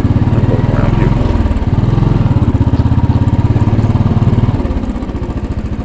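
2010 Royal Enfield Bullet 500's single-cylinder engine running at low revs, its firing pulses evenly spaced; it gets quieter about four and a half seconds in.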